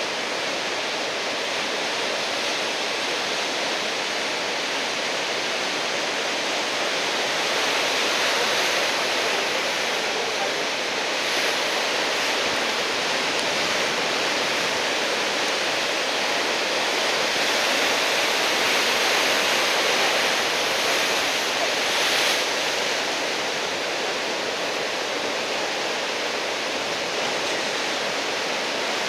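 Heavy typhoon surf breaking: a continuous roar of waves, swelling louder a couple of times.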